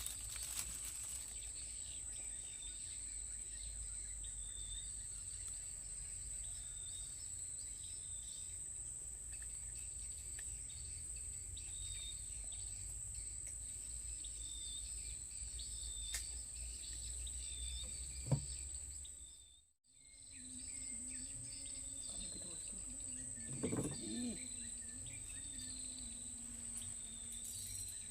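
Outdoor tropical ambience: a steady high-pitched insect drone, with short chirps repeating about once a second and a low rumble underneath. One sharp knock comes a little past the middle, and the sound drops out completely for a moment just after it.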